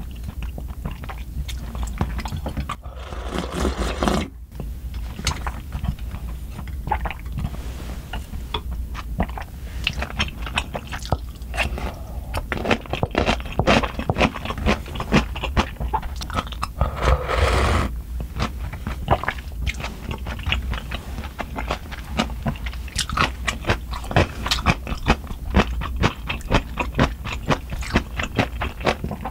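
Close-miked eating: steady chewing with many crisp, snappy crunches as food is bitten and chewed.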